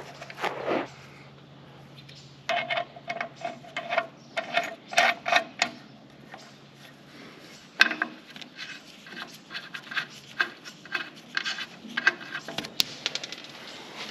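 Small metal hardware clinking and clicking in quick clusters, washers and bolts being handled and fitted, with a sharper metal knock about two-thirds of the way in. A low steady hum stops a little before the middle.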